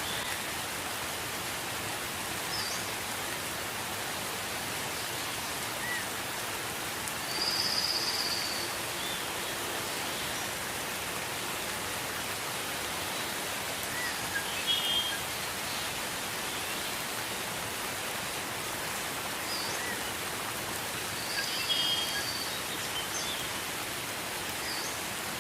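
Steady gentle rain hiss, with short high bird calls breaking in every few seconds, the clearest about every seven seconds.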